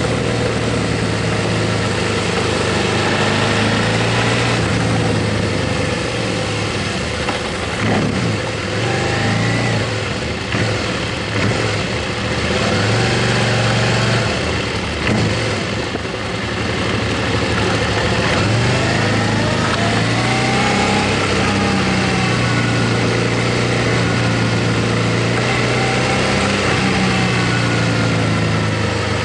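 Motorcycle engine running under way, a steady hum that dips briefly a few times, with a rushing haze of wind and road noise.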